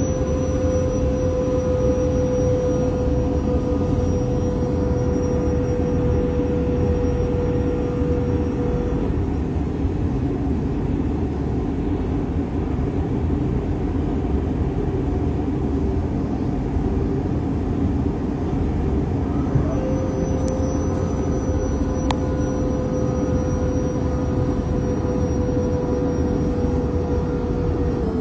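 Inside a moving Sydney suburban electric train: a steady low rumble from the wheels and running gear, with a steady whine that drops out for about ten seconds in the middle and then returns.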